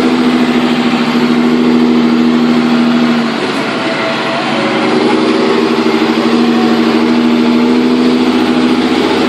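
John Deere 7530 tractor's six-cylinder diesel running through a modified silencer and 4-inch stainless exhaust at steady revs. It eases off about three seconds in and picks back up a second or two later.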